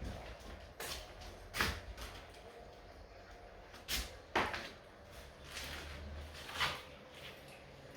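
Several irregular knocks and thuds, about five in all, the loudest about four and a half seconds in, over a low steady rumble.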